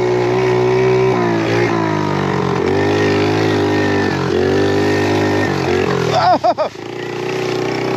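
Small pit bike engine running hard under the rider, its pitch rising and falling with the throttle, with several sudden drops. It labours in the sand. Just past six seconds in, the engine sound dips and then picks up again.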